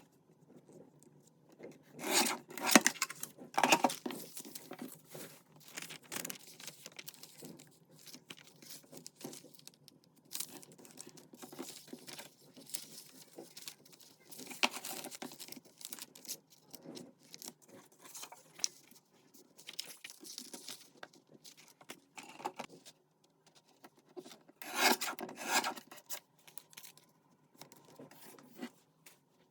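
Paper and cardstock being handled, with rustling, rubbing and tearing in irregular bursts. The loudest bursts come about two to four seconds in and again near the end.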